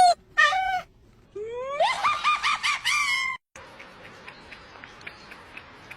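A cat meowing: two short meows, then a rising call that runs into a rapid string of repeated yowls lasting about two seconds. It breaks off abruptly, leaving only a faint background with light ticking.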